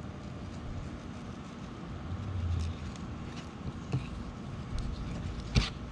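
Fillet knife working down the back of a kingfish, faint cutting sounds over a steady background hum, with one sharp knock about five and a half seconds in.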